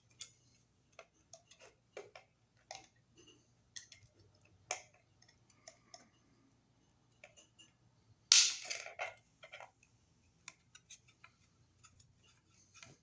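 Scattered light clicks and taps of wire mold raceway pieces being handled and fitted to an electrical box, with a louder clatter about eight seconds in.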